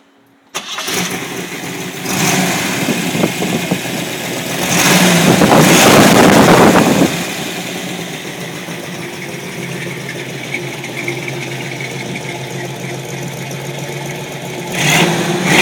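A 1962 Chevrolet Corvette's fuel-injected 327 V8 fires up right away about half a second in and is revved, with a long, loud rev in the middle. It then settles to a steady idle before being revved again near the end.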